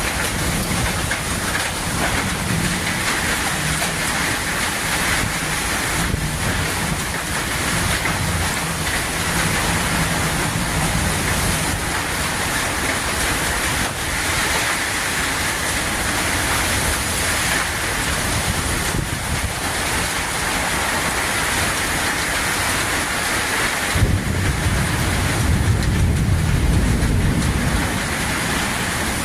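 Heavy thunderstorm rain falling with steady wind noise. A deeper rumble swells for several seconds near the end.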